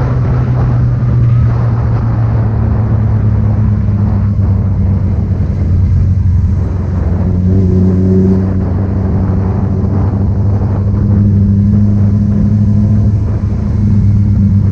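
Motorcycle engine with a loud exhaust running steadily. Its pitch rises and falls slightly a few times, as at a fast idle or light throttle.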